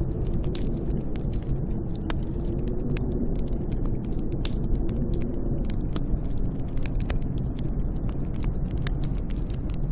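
Snowstorm wind as a steady, deep rumble, heard from a sheltered spot, with many scattered sharp crackles over it.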